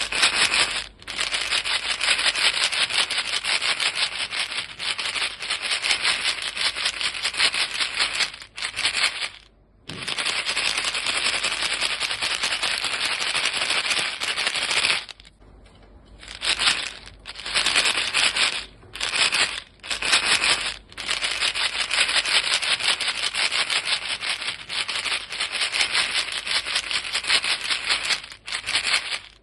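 A box of chewing gum pellets shaken back and forth: a fast, continuous dry rattle that stops briefly now and then, the longest pause a little over a second about halfway through.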